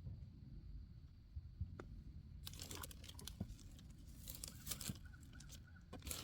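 Irregular crinkling and rustling starting about two and a half seconds in, over a low steady rumble.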